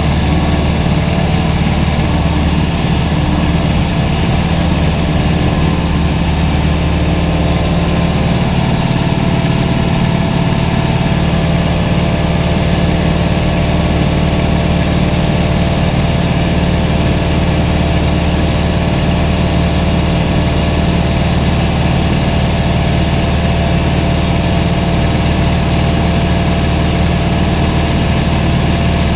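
Steady, loud drone of a propeller aircraft's engine heard from inside the cabin in flight, holding an even pitch and level throughout.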